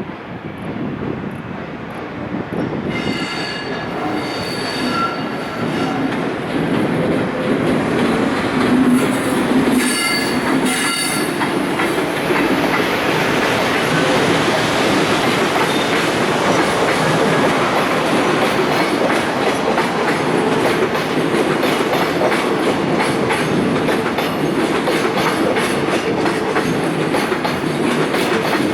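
Container freight train hauled by an EF510 electric locomotive rolling into a station. High wheel squeals sound through the first ten seconds or so as the noise grows louder. Then a steady rail rumble as the container wagons pass.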